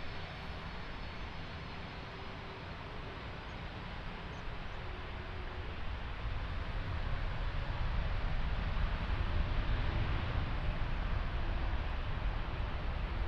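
Jet airliner engine noise: a steady rush that grows louder from about halfway through and then holds.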